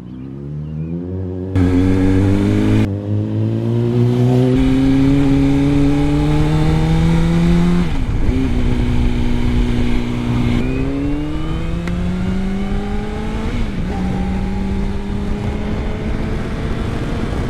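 2006 Honda CBR600's inline-four engine pulling away and accelerating through the gears. Its pitch climbs in each gear and drops at upshifts about eight, ten and a half and fourteen seconds in, then holds steady. Wind rushes on the helmet microphone as speed builds.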